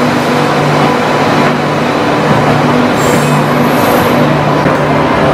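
LHB passenger train alongside a station platform: a steady, loud running noise with a low hum.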